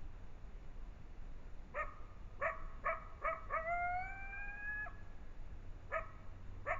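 Coyote yipping and howling: four short yips that sweep upward in pitch, then one howl a little over a second long that rises slowly, then two more yips near the end.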